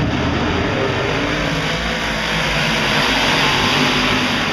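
Big-block modified race cars' V8 engines running as a field, a continuous engine din that swells as cars come closer around three seconds in.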